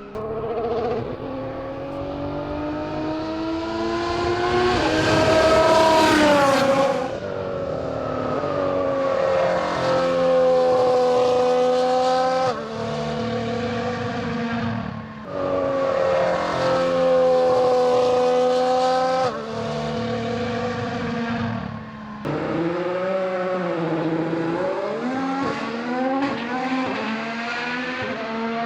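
Red Bull RB15 Formula 1 car's turbocharged 1.6-litre Honda V6 hybrid engine at speed, its pitch climbing steadily through the gears and dropping at each change. About five to seven seconds in the car passes close and its pitch falls as it goes by, and the sound jumps abruptly several times.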